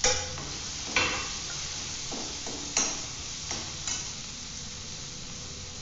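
Sem phali (flat green beans) frying in oil in a steel kadai, a steady sizzle, with a steel spatula knocking and scraping against the pan several times as they are stirred.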